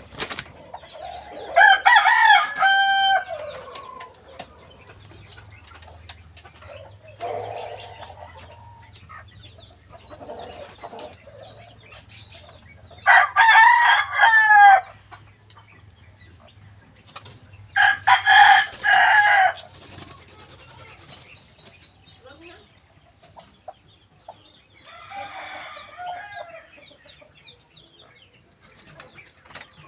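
Rooster crowing three times, each crow lasting about two seconds, with fainter bird calls in between.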